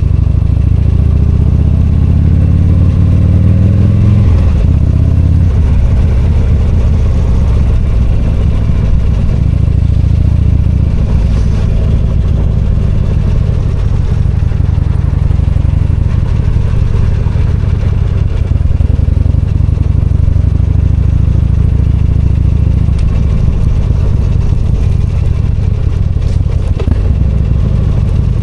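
V-twin motorcycle engine heard from the rider's seat, pulling up through the revs with a rising pitch over the first four seconds, then running steadily under way.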